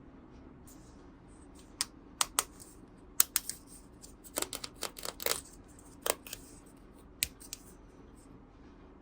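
Small toys and packaging being handled: a faint rustle, then irregular sharp clicks and taps, some in quick clusters, from about two seconds in until near the end.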